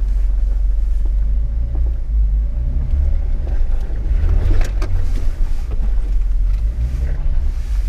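Off-road 4x4's engine running with a steady low rumble, with a short clatter of knocks about four and a half seconds in.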